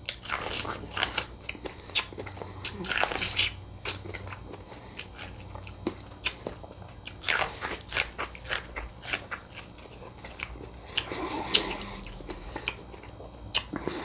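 A person eating close to the microphone: repeated bites and chewing of crunchy food, a steady run of irregular mouth clicks and crunches.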